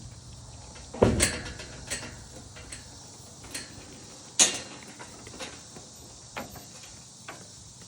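Scattered knocks and rattles, loudest about a second in and again a little past four seconds, from goats feeding through a gate and bumping against it.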